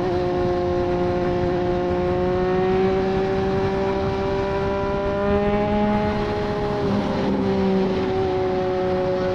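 Triumph Street Triple 765 three-cylinder engine through a Racefit Growler full exhaust, held at steady cruising revs, with wind noise. The pitch climbs slowly, wavers and dips about seven seconds in, then holds steady again.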